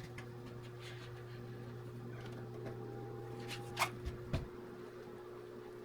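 Handling sounds from work on a windscreen's rubber seal: a sharp click a little under four seconds in, then two light knocks, over a steady low hum.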